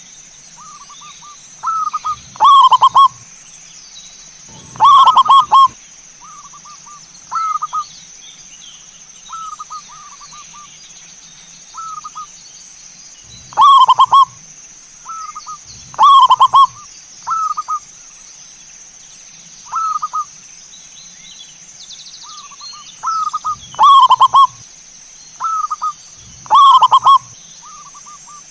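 Zebra doves (perkutut) cooing: loud rolling coo phrases repeat every few seconds, six in all, among many softer, quieter coos from other birds.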